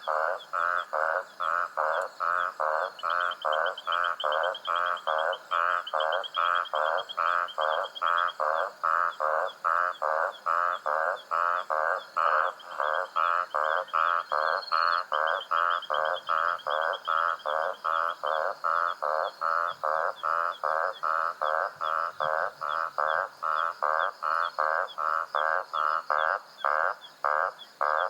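Frogs calling at night, a steady, evenly repeated croak about two to three times a second, with a fainter, higher trill that comes and goes.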